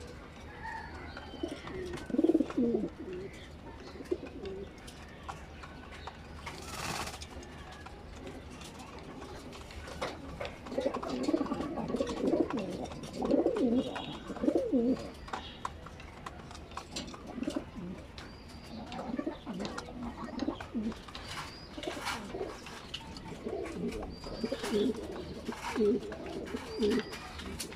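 Racing pigeons cooing: bouts of low, warbling coos, busiest from about ten seconds in and again near the end, with a brief rustle about a quarter of the way through.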